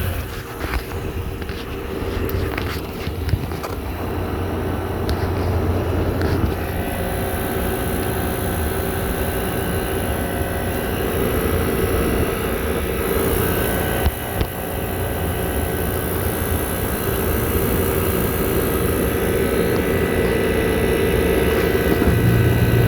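Air conditioner running: a steady fan rush with a constant motor hum and a few faint steady tones, growing slightly louder over the stretch.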